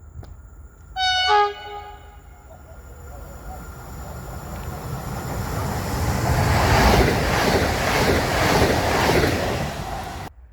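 A train sounds one short horn blast about a second in. It then approaches and passes, its rumble growing steadily louder to a peak and then cutting off suddenly near the end.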